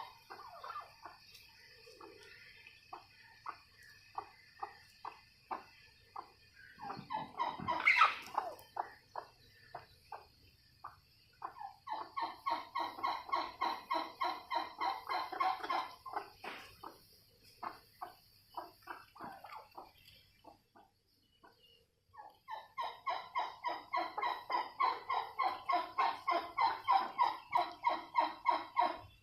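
Turkeys calling in runs of quick repeated notes, about four a second, with a louder call about eight seconds in. Two long runs build in loudness, the second from about two-thirds of the way through.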